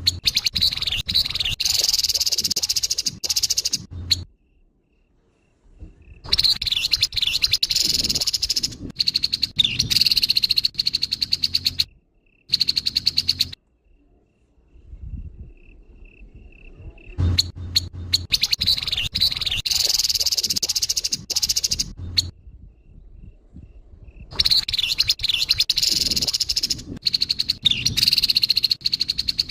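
Grey-headed babbler (tepus kepala abu) giving harsh, rasping chattering calls in fast runs of a few seconds each, broken by short pauses.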